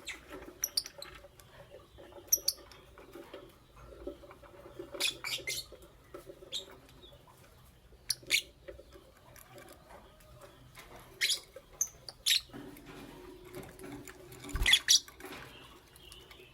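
Lovebirds giving short, sharp, high-pitched chirps and squeaks every second or few, sometimes two or three in quick succession, the loudest cluster near the end. A faint steady hum lies underneath.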